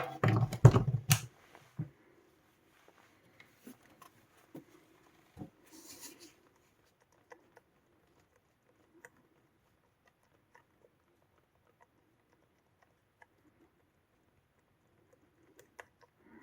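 Power lead being handled and plugged into a Sonos Playbar soundbar: a cluster of knocks and clicks in the first second, then near silence with scattered faint ticks and a brief rustle. The soundbar makes no sound at all: it is dead and does not power up.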